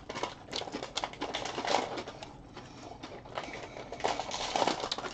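A person chewing a mouthful of food with the mouth closed, with irregular small wet clicks and crackles from the mouth.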